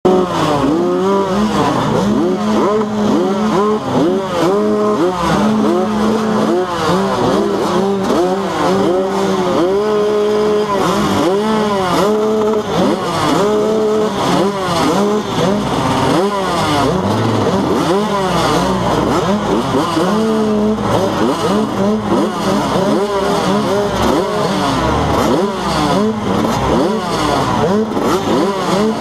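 Several motocross bikes' engines revving hard and shifting, their pitch rising and falling over and over as they ride the track, with one engine holding a steady note at times.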